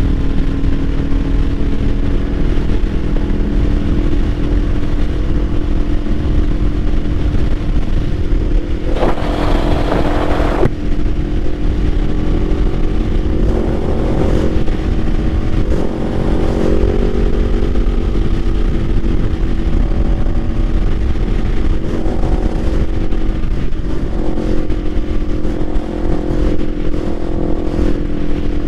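Kawasaki Ninja 500's parallel-twin engine running at a steady cruise, its pitch wavering only slightly, under heavy wind rumble on the microphone. A loud rushing sound lasts nearly two seconds, about nine seconds in.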